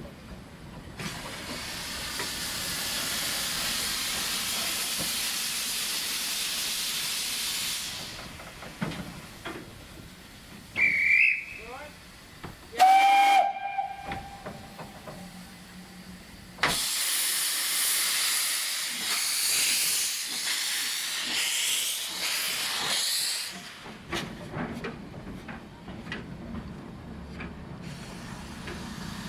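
Steam locomotive, a 1948 Stephenson 0-4-0 saddle tank, letting off steam in a long hiss for several seconds, then sounding two short whistle blasts, the first high and brief, the second lower and about a second long and the loudest sound here. Another long hiss of steam follows.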